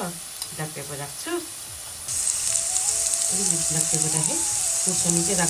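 Rayo saag (mustard greens) frying in a pan, sizzling; the sizzle suddenly grows louder and brighter about two seconds in.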